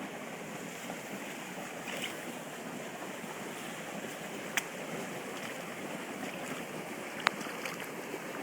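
Steady rushing of floodwater running through a garden nursery, with two sharp clicks, one past the middle and a louder one near the end.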